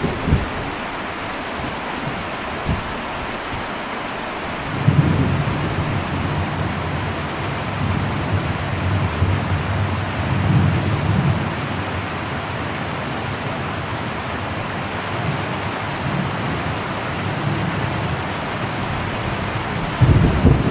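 Heavy rain falling on an old metal roof, a steady dense hiss, with low rolls of thunder: a short one right at the start, a long one from about five seconds in that lasts several seconds, and another beginning near the end.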